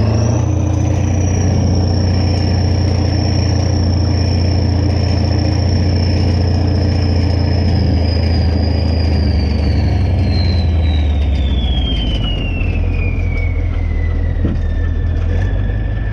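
Kirovets K-700A tractor's diesel engine running hard with a deep, steady drone and a high whistle over it. The engine eases off near the end, and the whistle slides down in pitch as it does.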